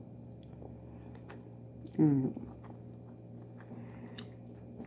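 Close-up chewing of a hand-fed mouthful of rice mixed with yogurt and cucumber: soft, wet mouth clicks. A brief vocal sound from the eater comes about two seconds in.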